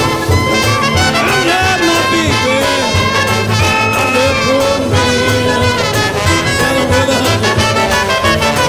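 Live swing-style jazz band playing an instrumental blues passage, brass horns bending and sliding their notes over a steady beat.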